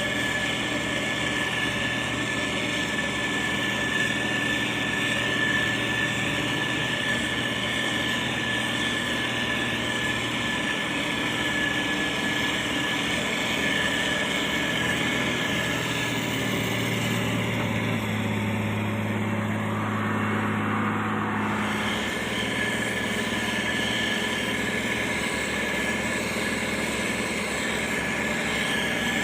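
Diesel engine of a heavy road-construction machine running steadily, its low hum deepening and strengthening for a few seconds past the middle.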